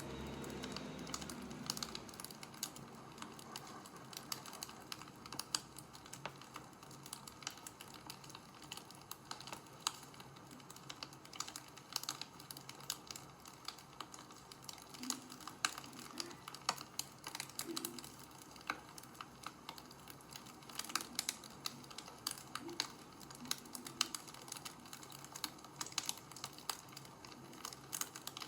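Wood fire crackling: irregular sharp snaps and pops over a faint steady hiss.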